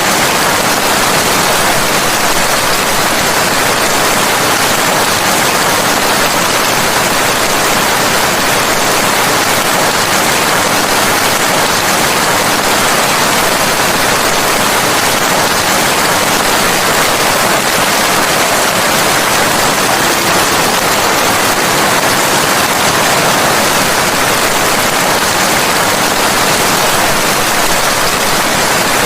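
Steady rain: a dense, even hiss with no single drops, thunder or other sounds standing out.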